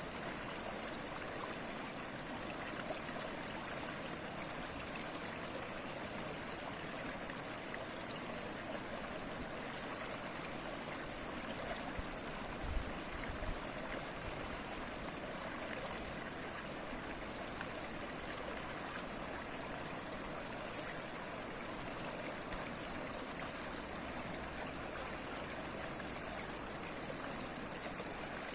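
A stream flowing and babbling steadily, with a few brief low bumps about halfway through.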